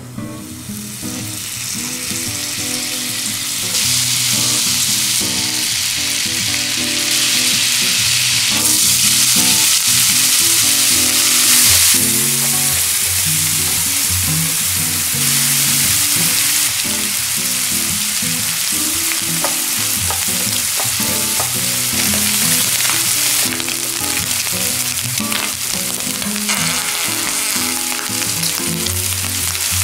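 Butter and canned corn kernels sizzling in a nonstick frying pan while a spatula stirs and scrapes them; the sizzle builds over the first few seconds and is loudest around ten seconds in.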